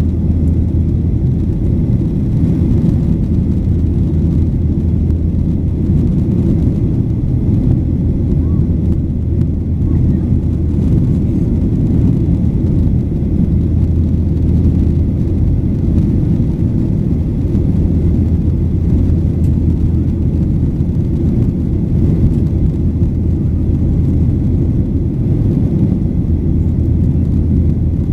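Steady low drone inside the cabin of a Boeing 737-800: its CFM56-7B engines and the airflow, heard from a seat just behind the wing, with an even hum under a rumbling hiss.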